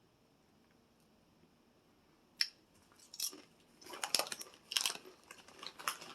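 Crunching into crisp barbecue corn chips: one sharp crack about two and a half seconds in, then a quick run of crunches over the last few seconds.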